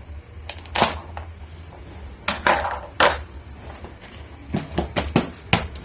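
Hard plastic parts of a vacuum cleaner being handled and unlatched: a series of sharp clicks and knocks, more closely spaced in the second half.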